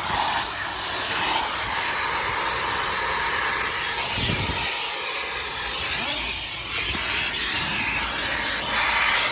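Car-wash vacuum running steadily, sucking air through its hose and tool while vacuuming a car's interior. A few soft knocks come about halfway through.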